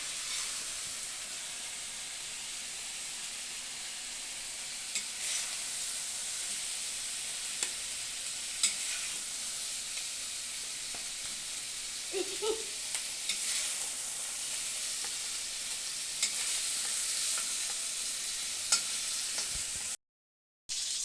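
Marinated chicken pieces sizzling as they fry in hot oil in a pan, with occasional light clicks of a spatula against the pan. The sound cuts out for under a second near the end.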